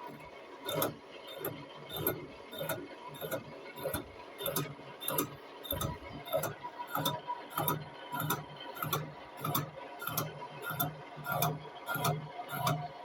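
Boring machine's rotating facing head feeding down and cutting cast iron, giving a steady ticking about every 0.6 seconds over the hum of the machine.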